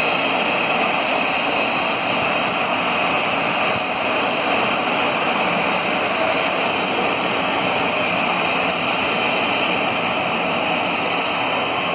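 Steam-hauled passenger coaches running past on the rails: a steady rushing rumble of wheels on track that holds level throughout.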